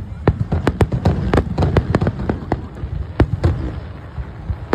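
Fireworks going off in a rapid, irregular string of sharp bangs and crackles, thickest in the first half with another cluster a little past the middle, over a steady low rumble.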